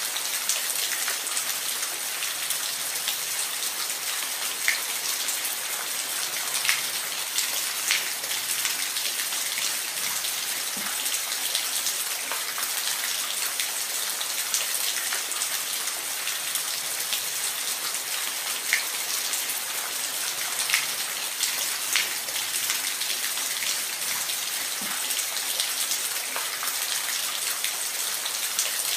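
Steady hiss of falling water, with scattered sharp drips and splashes on top.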